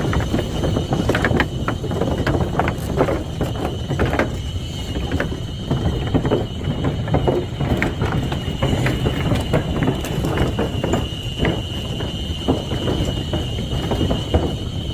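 Rattling and knocking of a ride in an open electric resort buggy, over a constant low rumble, with a steady high-pitched tone heard over it.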